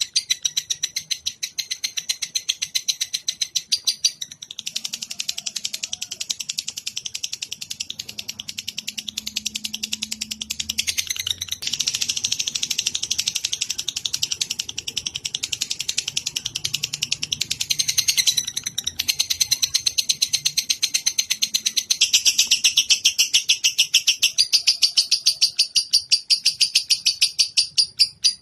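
A songbird's rapid, rhythmic high chattering, several chirps a second, in long unbroken bouts that shift pattern every few seconds, as used in a song-training recording.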